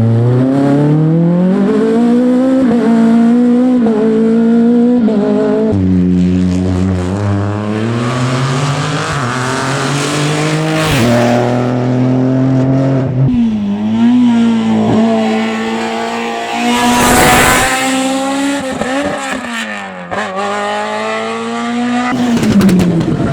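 Rally car engines at full throttle on a stage, pitch climbing and then dropping sharply with each gear change as the cars accelerate and brake. A brief loud rush of noise comes about seventeen seconds in.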